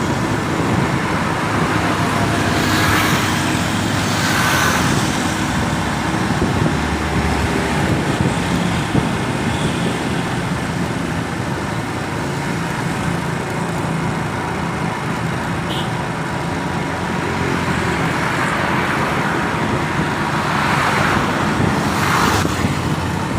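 Road traffic: engines running steadily, with several vehicles passing by, a couple near the start and two more near the end.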